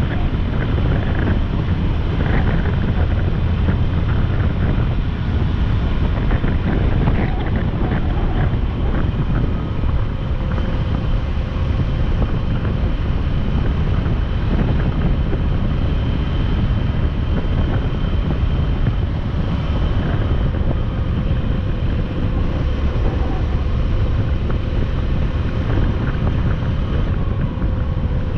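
Wind rushing over the microphone on a moving motorcycle, over the steady note of its engine and road noise. The engine note dips slightly near the end.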